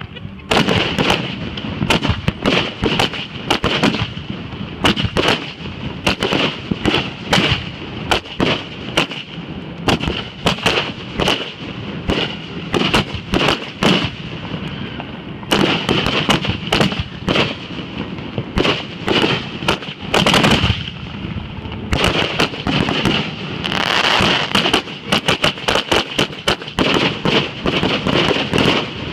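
Fireworks going off in rapid succession: dense sharp bangs several a second, with stretches of thicker crackling, and no pause.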